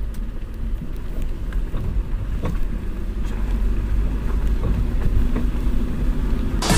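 Vehicle on the move: a steady low engine and road rumble, with scattered light ticks. Music cuts in sharply near the end.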